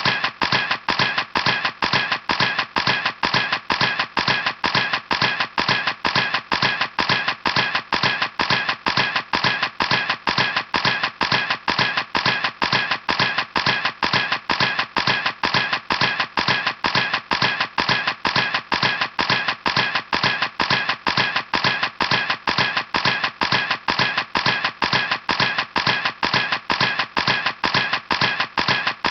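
Camera shutter clicking over and over in an even rhythm, about three clicks a second.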